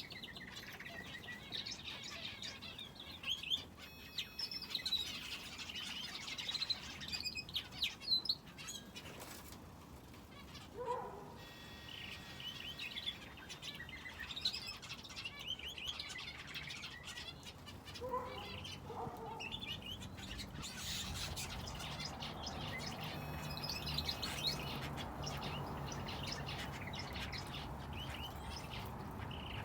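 Small aviary finches and a canary chirping and twittering in many short, quick calls, with a steady low hum coming in about two-thirds of the way through.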